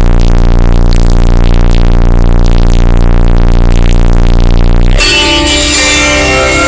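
Music played very loud through four 18-inch Digital Designs subwoofers in a fourth-order box: a single deep bass note held steady for about five seconds, then the fuller track with higher parts comes back in.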